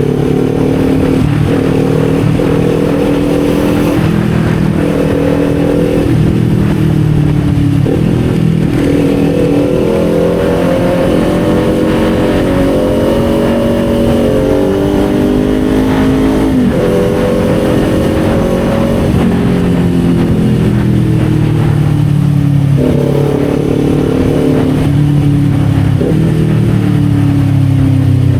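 Kawasaki Z400's parallel-twin engine accelerating on the road. Its pitch climbs through each gear and drops sharply at several gear changes.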